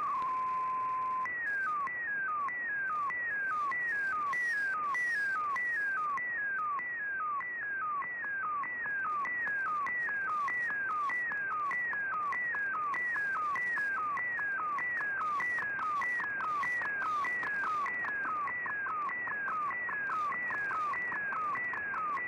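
Slow-scan TV (SSTV) image signal received on a shortwave radio. It opens with a steady tone for about a second, then a warbling tone pattern sweeping down from high to low repeats about twice a second, one sweep per image line, over a steady shortwave hiss.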